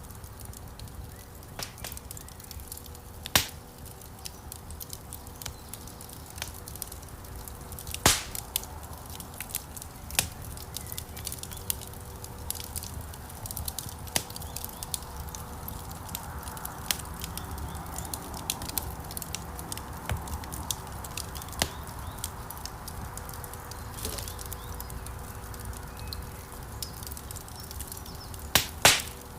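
Wood fire crackling in a fireplace, with a steady low rumble of flames and frequent small snaps. Sharp pops come about three seconds in, about eight seconds in, and twice in quick succession near the end.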